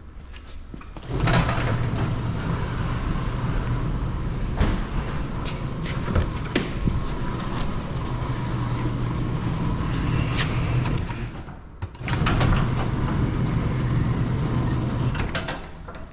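Motorized overhead shop door running: a steady motor hum with rattling, starting abruptly about a second in and running about ten seconds, then a short pause and a second run of about three seconds that stops abruptly.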